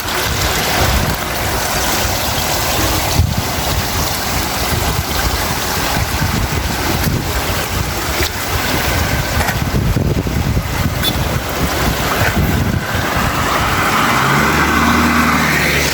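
Rushing floodwater and rain at an overflowing drain, with wind buffeting the microphone. A low engine hum comes in about two seconds before the end.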